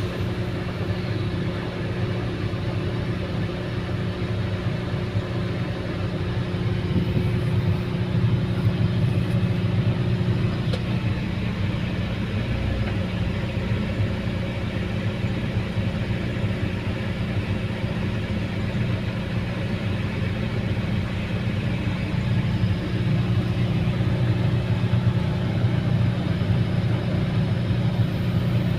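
A vehicle's engine idling steadily with an even, low hum.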